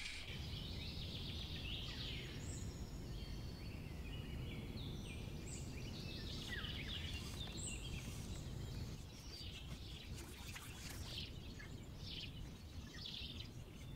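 Several small birds singing and chirping in quick short phrases and trills, over a steady low background rumble.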